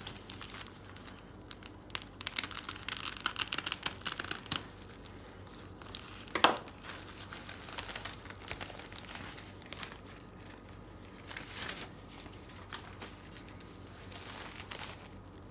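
A mail package being opened by hand, its wrapping crinkling and tearing. There is a busy run of crinkling in the first few seconds, one sharp crackle about six seconds in, then quieter rustling as the contents are handled.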